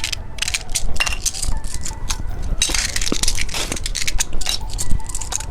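Hard candies and small plastic candy pieces being handled: a quick run of small clicks and clinks, with a short stretch of crinkly rustling near the middle.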